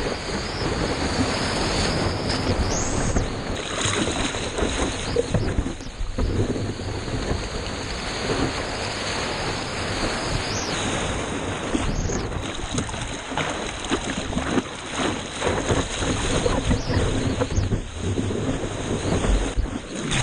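Seawater splashing and rushing right against a GoPro camera in the surf, with wind buffeting the microphone; the level swells and dips unevenly.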